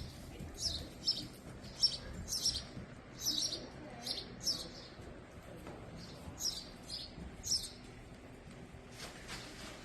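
A small bird chirping over and over, short high chirps about twice a second, which stop about three-quarters of the way through.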